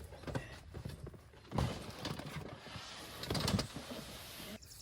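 Camping gear being handled and packed: irregular knocks and clunks, the loudest about one and a half seconds in and again a little after three seconds, with rustling between them.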